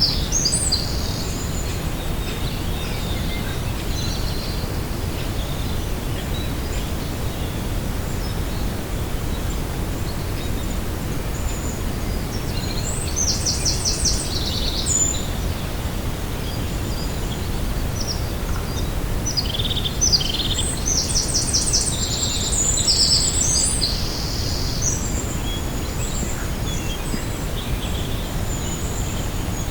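Small songbirds singing in short, high, rapid trills, in three spells: near the start, a little before halfway, and a longer spell about two-thirds of the way in. Under them runs a steady low rumble of wind.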